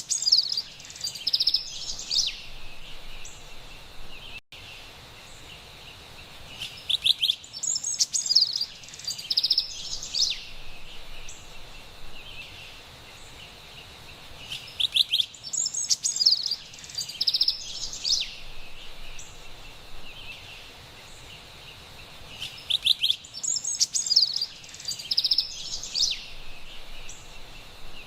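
Carolina wren singing bouts of rapid, loud repeated notes, the same song coming back about every eight seconds, over a faint steady forest background.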